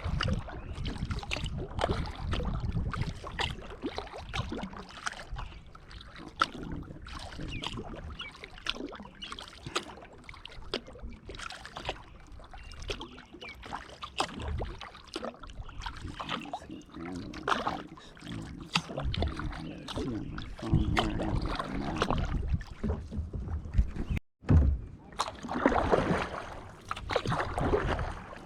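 Kayak paddling: the paddle blades dip and splash rhythmically through the water, with drips and occasional knocks against the boat.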